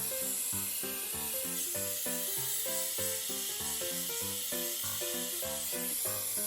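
One Step hot-air dryer brush blowing with a steady hiss of air, under background music with a quick run of changing notes.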